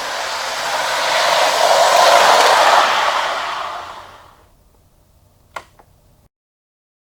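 Older Lionel locomotives running flat out on track at full throttle, a loud, even whirring and rolling rush. It starts suddenly, grows louder, then fades away after about four seconds. Two sharp clicks follow a moment apart near the end.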